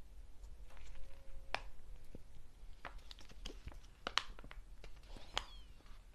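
Close-miked ASMR handling sounds: scattered small clicks, taps and crinkles of snacks and their packaging, with a brief faint squeak about five seconds in.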